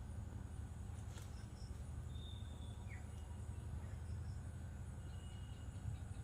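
Outdoor evening ambience: a steady low rumble with a few faint, short bird chirps, one a brief rising chirp about three seconds in.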